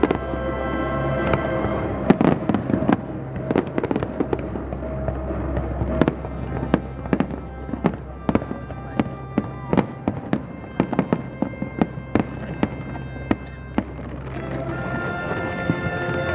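Aerial fireworks going off in a rapid, irregular string of sharp bangs and crackles, with music playing throughout.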